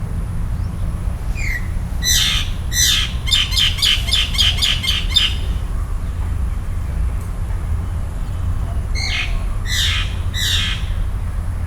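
A bird calling: a few harsh, downward-sweeping notes, then a fast run of about ten notes, a pause of a few seconds, and three more calls near the end. A steady low rumble runs underneath.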